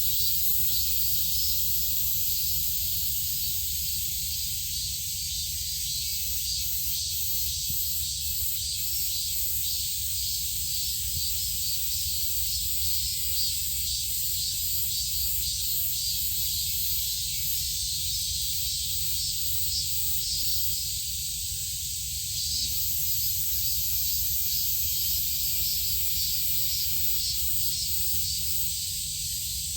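Steady high hiss of outdoor background noise over a low rumble, with no distinct calls standing out.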